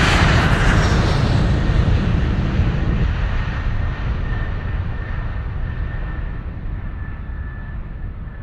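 Airplane flyby noise: a loud, steady rush that slowly grows quieter and duller as it recedes.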